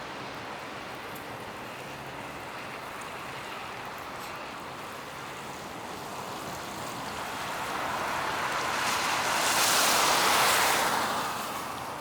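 Steady street hum, then a passing vehicle's tyres hissing on the snowy, wet road, swelling to a peak about ten seconds in and fading quickly.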